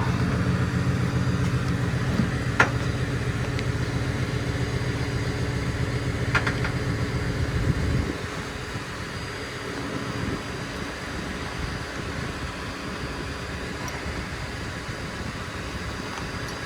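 A vehicle engine idling steadily, with two sharp clicks. The hum drops noticeably about halfway through.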